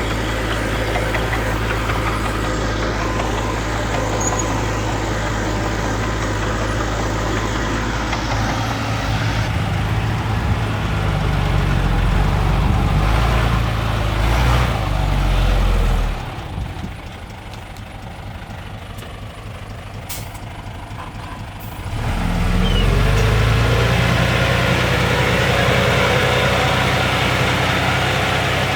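Diesel engines of dump trucks and a small bulldozer working on a landfill site, running steadily. The sound drops to a quieter stretch for several seconds past the middle, then picks up again.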